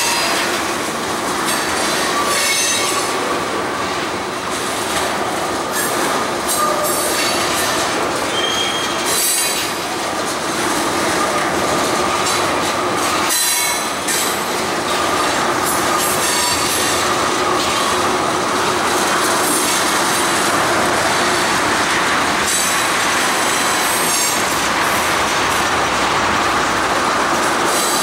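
Freight train cars rolling past: steady wheel-on-rail noise with a held, high squeal from the wheels and scattered clicks as the wheels cross rail joints.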